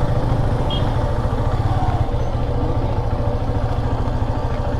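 Yamaha FZS motorcycle's single-cylinder engine running steadily.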